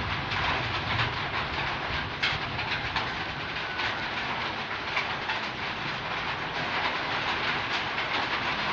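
Heavy rain falling steadily, a dense hiss dotted with many sharp drips and taps of drops striking nearby surfaces.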